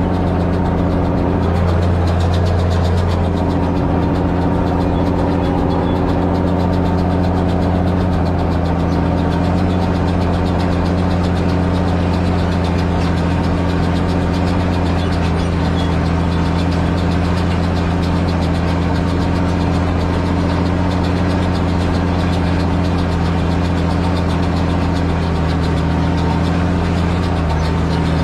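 Same Titan 160 tractor's air-cooled six-cylinder diesel engine running steadily at constant speed, its pitch shifting slightly near the end.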